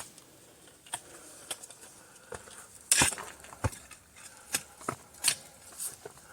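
A hiker's footsteps on rock while climbing a rock wall: irregular sharp clicks and scuffs, about nine of them, the loudest about three seconds in.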